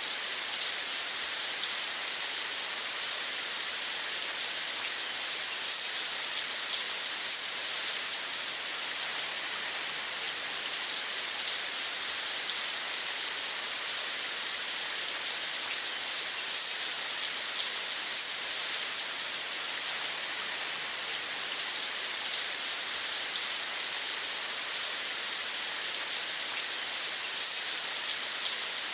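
Steady rain falling, an even hiss of many fine drops, unchanging throughout, used as sleep white noise.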